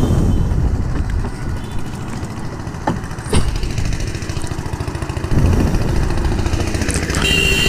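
Motorcycle engine idling with a steady, uneven low pulse. A short high tone sounds near the end.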